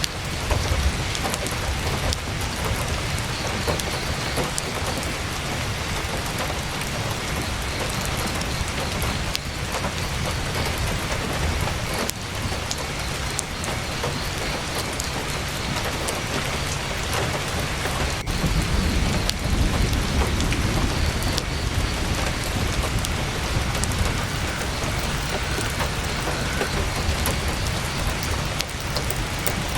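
Heavy rain drumming on a tent canvas, a steady dense hiss with a low rumble underneath.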